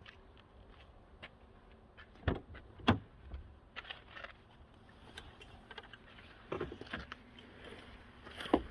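Handling noises from a person getting out of a parked car: scattered clicks and light jangling, with sharp thumps about two and three seconds in and again near the end.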